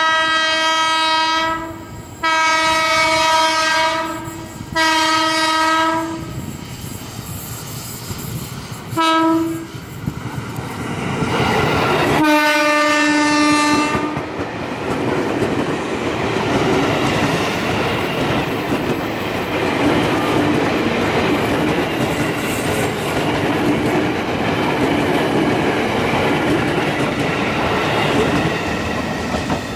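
KRL Commuterline electric train sounding its horn: three long blasts, a short toot about nine seconds in, and a final blast a little lower in pitch about twelve seconds in as it draws level. From about ten seconds the rumble and clatter of its wheels on the rails builds and carries on as the train passes.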